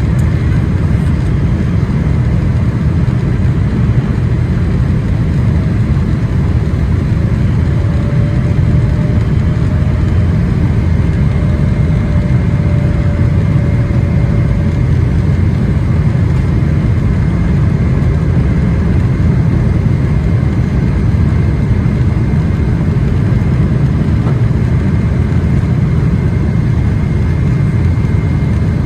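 Steady cabin noise of a Boeing 777-300ER on its way in to land: a loud, even rumble of the GE90 engines and airflow, with a faint high steady tone above it.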